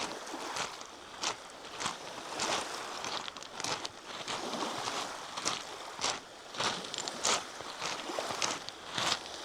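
Footsteps of a walker on a trail at a steady pace, a little under two steps a second, over a steady rushing background.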